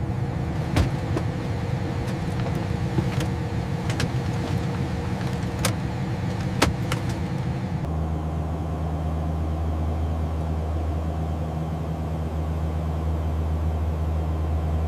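Ilyushin Il-18 turboprop engines running: a steady rumble with a few sharp clicks. About eight seconds in it changes to a steady low drone.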